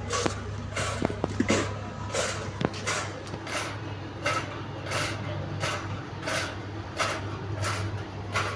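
Electric fan running with a steady low hum and a rhythmic whooshing scrape repeating about every 0.7 s, the strange noise it makes, with a few light clicks in the first few seconds.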